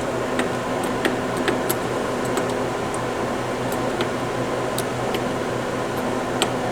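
Steady mechanical hum with a dozen or so faint, light clicks scattered through it.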